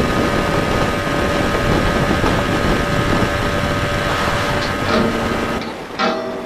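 A boat motor running steadily under way, with a steady whine and rushing air over the microphone. It cuts off abruptly near the end, and plucked-string music begins.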